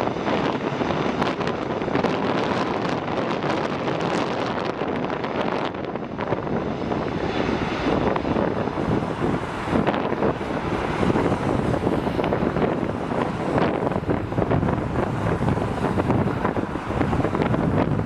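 Jet airliner engines running as an aircraft passes, heard through gusts of wind buffeting the microphone.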